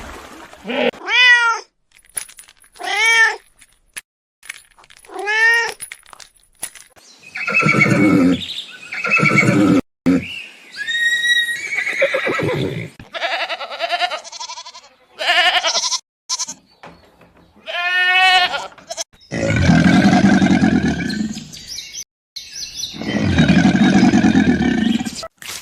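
A sequence of different farm-animal calls. First come three short calls that rise and fall in pitch, then several rougher calls, and near the end two long, loud, lower calls.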